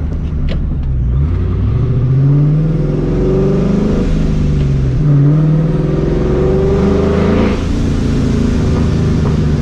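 Vortech-supercharged 4.6-litre V8 of a New Edge Mustang GT, through a catless X-pipe and Borla ATAK exhaust, accelerating under load. The engine note climbs, falls back about four seconds in, climbs again and drops sharply near the end.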